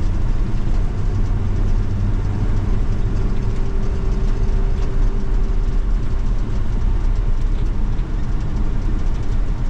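1980 Chevy K20 pickup driving in four-wheel drive, heard from inside the cab: a steady low engine and road rumble, with a faint steady whine for a couple of seconds around the middle.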